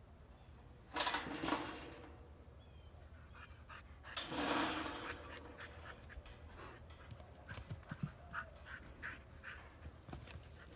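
Dog panting in quick rhythmic breaths, with two louder breathy rushes of noise about a second and about four seconds in.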